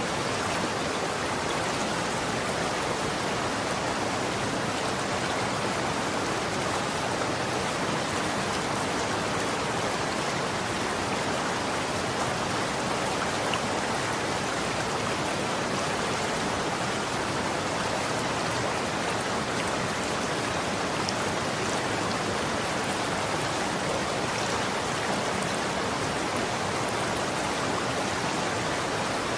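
Running water: a steady, unbroken rushing and splashing.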